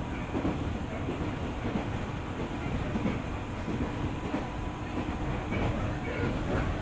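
JR 205 series 600 subseries electric train running on the line, heard from inside the car: steady rolling noise with irregular clicking of wheels over the rail joints.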